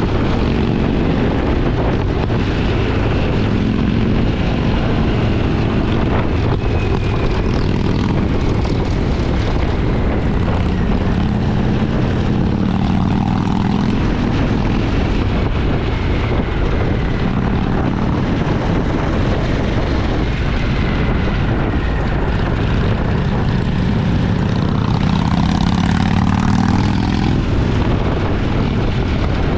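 Twin-cylinder motorcycle engine running steadily at cruising speed, with wind rushing past. Its pitch shifts briefly near the end.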